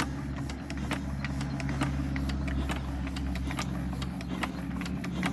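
Peter diesel engine running steadily, with sharp knocks coming several times a second.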